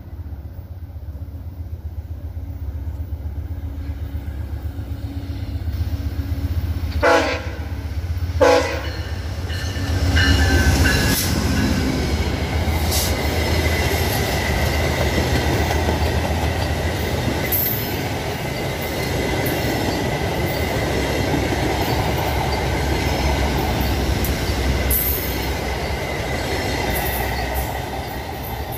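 Train approaching with a low rumble that grows, two short horn blasts about seven and eight and a half seconds in, then the train passing close by with loud rail noise, a thin steady wheel squeal and scattered clicks.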